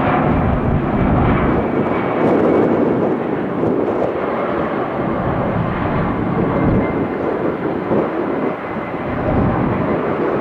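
Boeing 757-200 twin-engine jetliner taking off at full power: a loud, steady jet roar with a faint high whine that sinks slowly in pitch.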